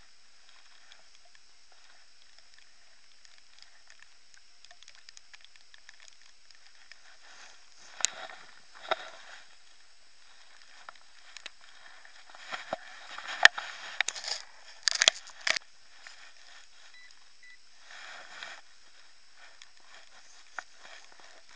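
Spade digging in wet ground: bursts of crunching and scraping as soil is cut and levered out, loudest in a cluster of sharp strikes about two-thirds of the way through, over a steady faint hiss.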